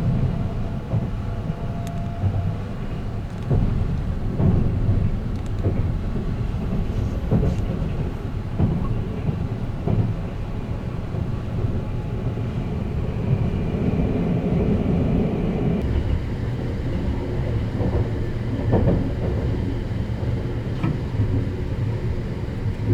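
Running noise of the Sunrise Express sleeper train heard from inside the car at speed: a steady low rumble of wheels on rail, with occasional short knocks and clacks.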